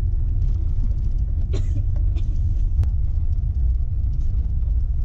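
Steady low engine and road rumble of a motor vehicle, heard from inside the cabin, with a few faint clicks.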